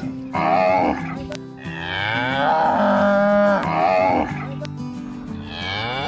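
Cattle mooing: a short moo near the start, a long drawn-out moo in the middle, and another beginning near the end, over background music with steady low notes.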